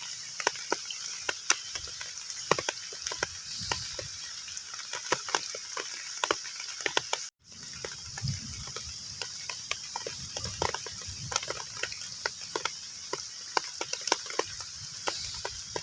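Heavy rain falling on a pond's surface: a dense, irregular patter of individual drops plinking over a steady hiss. The sound cuts out completely for a split second about seven seconds in.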